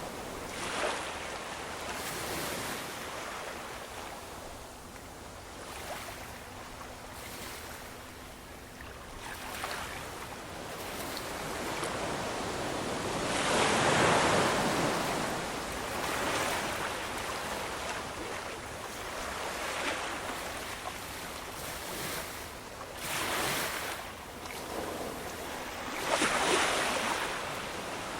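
Ocean waves breaking and washing on the shore, rising and falling in slow surges, with the biggest swells about halfway through and again near the end.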